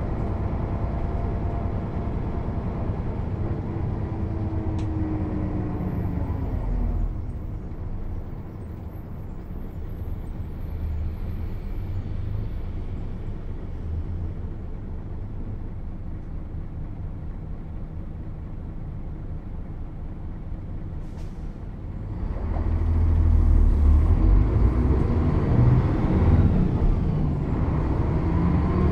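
Mercedes-Benz O 407 bus's six-cylinder diesel engine: for the first several seconds it runs under way with its pitch falling as the bus slows, then about seven seconds in it drops to a quieter idle. About 22 seconds in it gets much louder and its pitch climbs as the bus pulls away.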